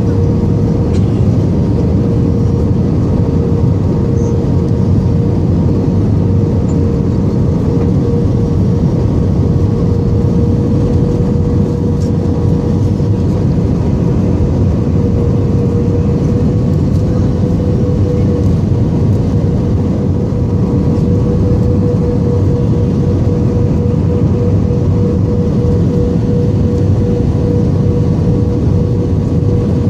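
Airbus A320 in flight, heard from the cabin: a steady rushing of engines and airflow with a steady humming tone over it that wavers slightly.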